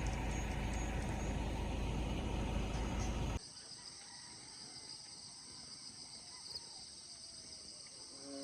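Rumbling road noise of a moving vehicle that cuts off abruptly about three seconds in, replaced by a quiet outdoor ambience with insects buzzing steadily at a high pitch.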